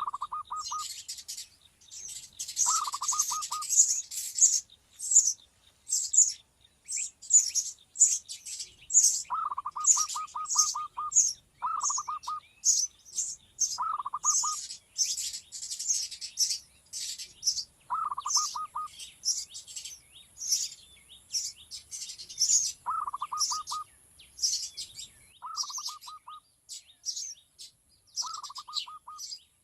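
Small birds chirping rapidly and almost without pause in high, sharp notes. A lower call of quick pulses, each lasting about a second, repeats every few seconds over the chirping.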